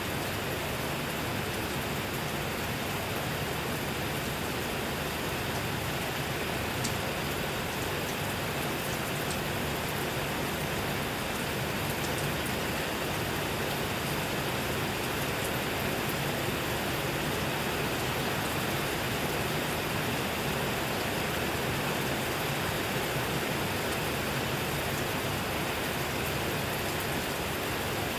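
Steady rainfall, a constant even hiss of falling rain with a few faint drop ticks.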